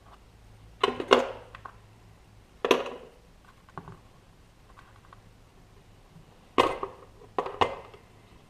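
Small metal parts and tools being handled and set down on a workbench: a handful of separate clattering knocks and clinks, two of them in quick pairs.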